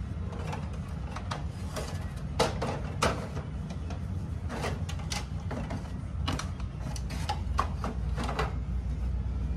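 Irregular clicks and knocks of parts and tools being handled on a photocopier under repair, the two loudest knocks about two and a half and three seconds in, over a steady low hum.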